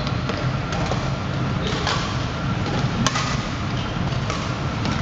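A few sharp knocks or hits, the loudest about three seconds in, over a steady background din.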